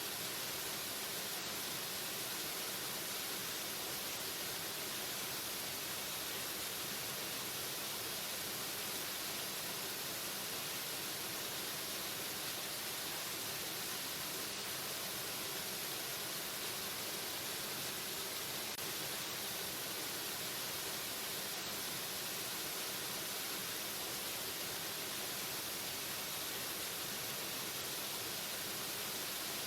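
Waterfall: a steady, unbroken rush of falling water, even in level throughout, with much of its energy in the high hiss.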